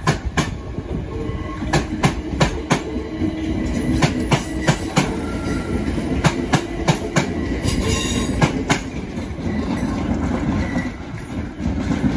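Gatwick Express Class 387 electric train rolling slowly past, its wheels clicking over rail joints and points in uneven clusters over a steady low hum.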